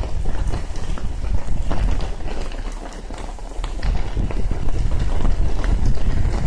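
Heavy rain with wind buffeting the phone's microphone in a low, unsteady rumble, and irregular sharp ticks of drops striking close by. It eases briefly about three seconds in, then picks up again.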